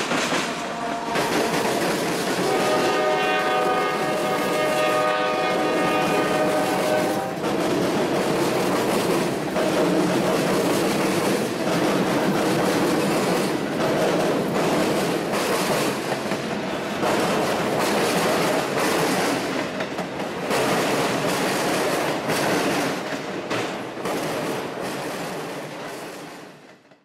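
Freight train rolling past, its wheels clicking steadily over the rail joints. A locomotive horn sounds a chord of several notes for about five seconds, starting a couple of seconds in.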